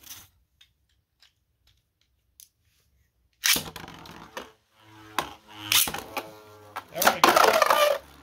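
Two 3D-printed Beyblade tops launched into a plastic stadium about three and a half seconds in, after a near-silent pause. They spin with a steady whine and clash again and again, the clattering loudest near the end.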